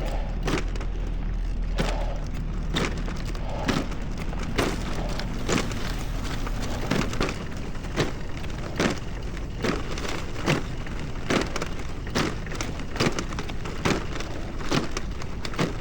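Regular dull thuds a little more than once a second, a cyclist's foot or shin knocking a loaded bag hung on the bike with each pedal stroke, over a steady low rumble.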